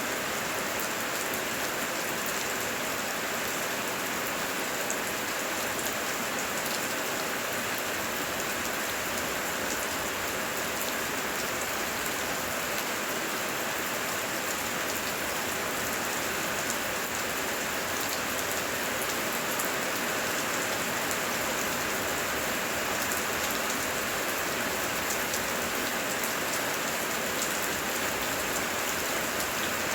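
Heavy rain falling steadily: an even hiss dotted with many small, sharp drop ticks.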